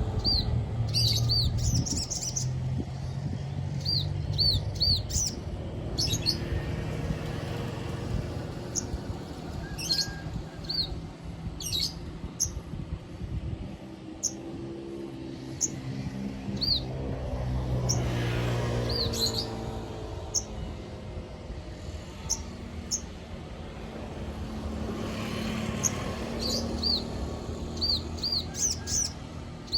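Sogon bird song: short, high, hooked whistle notes in clusters of two or three, repeated every second or two, as used for a lure call. Underneath is a low steady rumble that swells twice.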